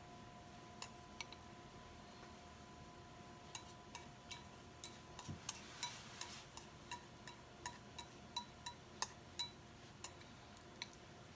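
Light clinks and taps of kitchen utensils against dishes, a couple early and then a quick run of about two to three a second with a short ring on each. A faint steady hum runs underneath.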